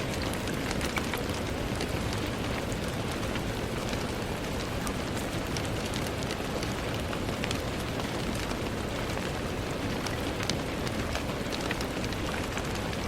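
Steady rain falling, a dense even hiss with many sharp individual drop ticks and a low rumble underneath.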